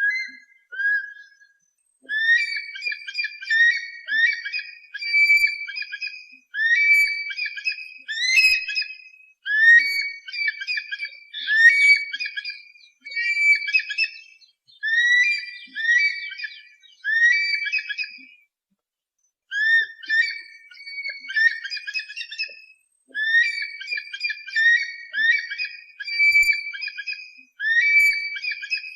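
Eagle calls: runs of shrill, whistled notes repeated rapidly, each run lasting a few seconds and separated by short pauses, with a longer break just past the middle. A raptor call of the kind played to scare pest birds away.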